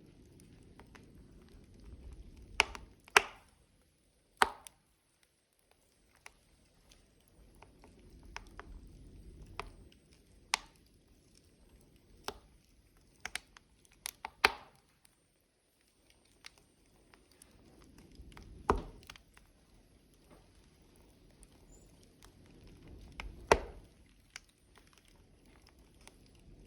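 Burning logs crackling: irregular sharp pops and snaps, a handful of them loud, over a low rush of flame that swells and fades.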